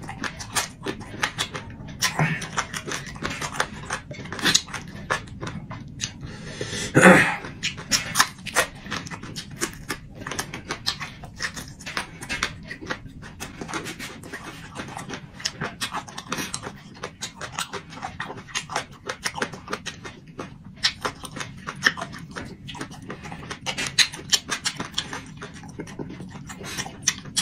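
Close-miked chewing: a man eating braised meat with his mouth, with many quick wet smacks and clicks of the lips and tongue and a brief louder mouth sound about seven seconds in.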